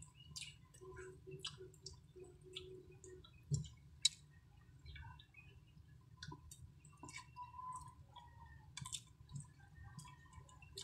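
Close-up eating sounds of people chewing soft food and eating with their fingers: scattered small wet clicks and smacks of mouths and fingers, with a sharper click about four seconds in.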